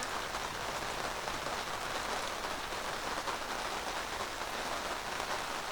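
Steady rain drumming on the canvas roof of a yurt, an even, unbroken patter.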